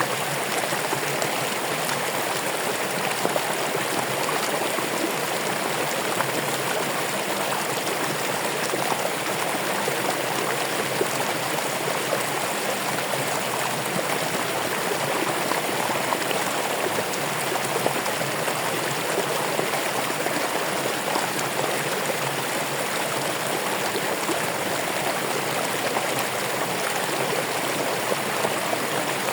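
Running water in a stream, flowing steadily over stones with a constant rushing and splashing.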